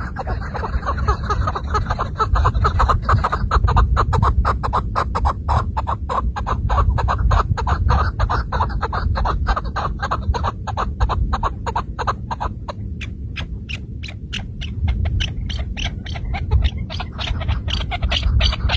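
Chukar partridge calling: a long run of rapid clucking notes, about five a second, over a steady low rumble.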